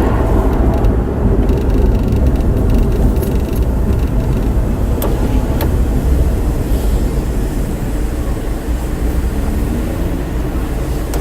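Car driving, heard as a steady low rumble of engine and road noise, with a couple of light clicks about halfway through and the engine note rising near the end.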